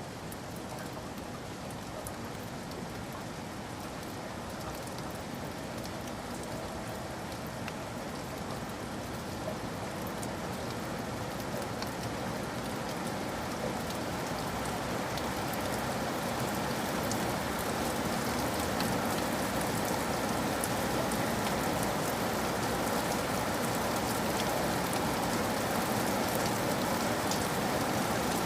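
Steady rain with scattered drop taps, slowly growing louder.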